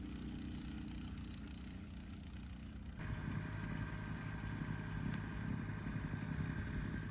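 An engine running steadily. About three seconds in it cuts abruptly to a louder engine with a steady whine over it.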